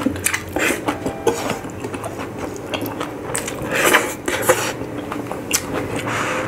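Close-miked chewing and lip smacking as a man eats rice and boiled pork by hand, with many quick wet clicks. Near the end comes a slurp of broth from a soup spoon.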